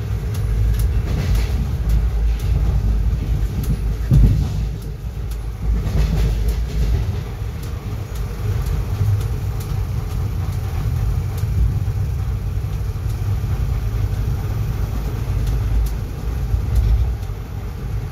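Indian Railways express train running at speed, heard from aboard a coach: a steady low rumble of wheels on rail, with scattered clicks over rail joints and one louder knock about four seconds in.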